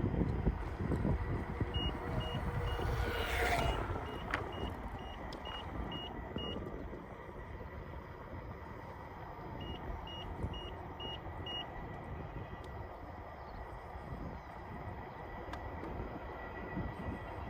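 InMotion E20 electric unicycle giving runs of short, high warning beeps, about two and a half a second, over steady wind and tyre noise. A brief whoosh sweeps past about three and a half seconds in.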